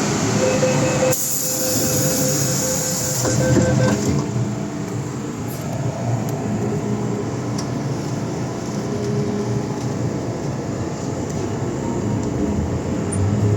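MTR M-Train metro running, a steady rumble of wheels on rail. A steady whine sounds through the first four seconds, and a brief high hiss comes from about one to three seconds in.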